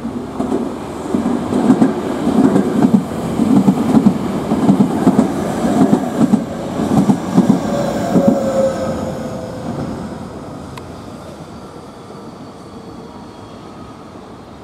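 Nankai 8300-series electric train passing at speed, its wheels clattering over rail joints in a quick, uneven rhythm. A falling whine comes in during the second half of its passage, then the sound fades away as the train recedes.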